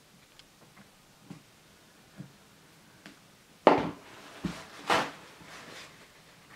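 Handling noise from regluing the peeling artificial leather on a bass case: a few faint clicks, then about halfway through two louder knocks and rubs, with a smaller knock between them.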